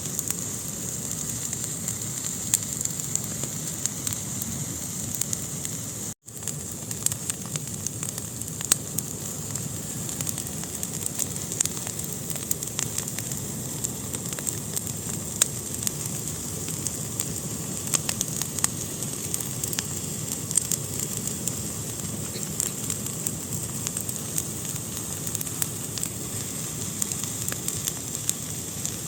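Wood fire burning in a fireplace: a steady hiss and low rumble of flames with frequent sharp crackles and pops. The sound cuts out for a split second about six seconds in.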